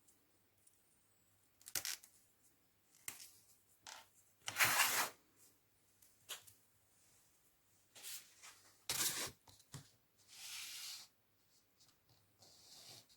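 Sandpaper rasping in short, separate strokes against the broken ends of LEGO plastic parts, with small clicks of the parts being handled between strokes; two longer, steadier strokes come near the end.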